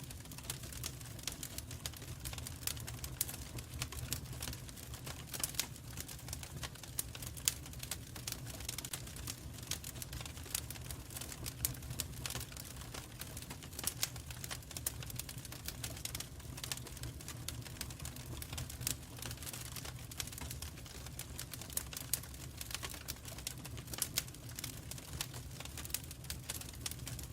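Wood fire in a fireplace crackling: a steady stream of sharp, irregular pops and snaps over a low, steady rumble.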